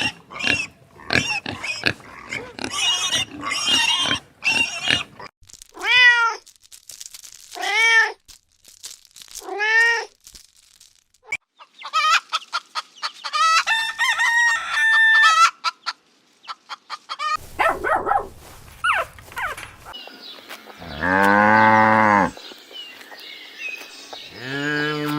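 A string of different animal calls: a fast run of short high squeaks, then a cat meowing three times about two seconds apart, a stretch of high twittering, and near the end one long, loud, deep-voiced call.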